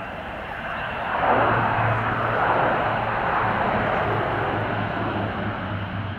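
Airbus A400M Atlas turboprop transport flying by, its four turboprop engines and propellers running with a steady low hum under a broad engine noise that swells loudly about a second in.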